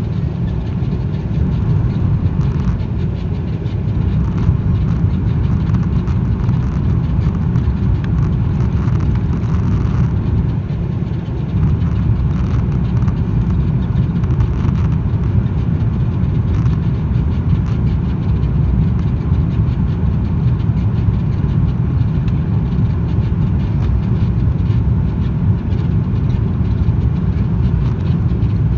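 Steady low cabin rumble of an Airbus A330 airliner, the engines and airflow heard from inside the passenger cabin.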